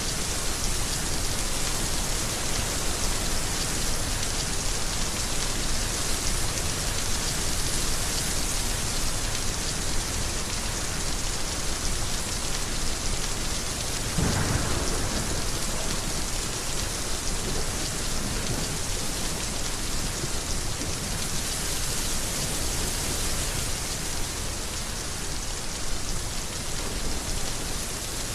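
Heavy rain falling steadily, with a low roll of thunder swelling up about halfway through.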